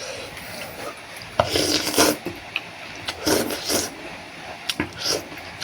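Close-up eating sounds: noodle soup slurped in two noisy bursts, about a second and a half in and again about three seconds in, followed by a few short clicks of utensils against the bowl.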